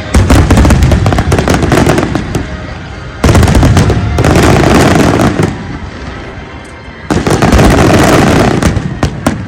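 Large fireworks display: three barrages of rapid bangs and crackling. Each starts suddenly, one at the start, one about three seconds in and one about seven seconds in, and each lasts two to three seconds.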